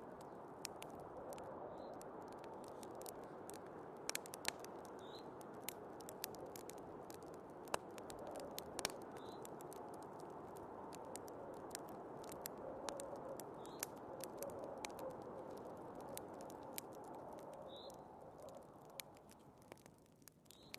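Wood fire crackling, with irregular sharp pops and snaps, over the steady sound of snowstorm wind. The wind dips briefly near the end.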